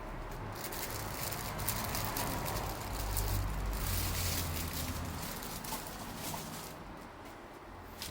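Wood fire crackling, with many small snaps and a sharper pop near the end, over a low rumble that swells in the middle.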